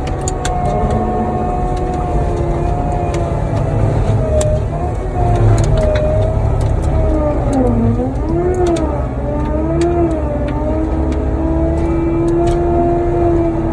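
Cat 279D3 compact track loader's diesel engine and hydraulic mulcher head running hard. The whine sags in pitch and recovers about eight seconds in as the mulcher takes load. Scattered sharp cracks run throughout.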